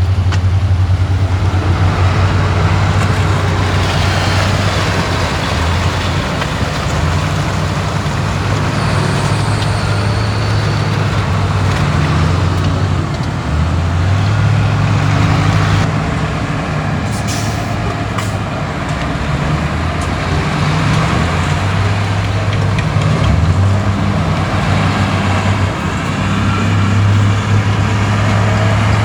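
Heavy diesel engines of earthmoving machinery running under load, the engine note dropping and rising as the load changes, with a short hiss about two-thirds of the way through.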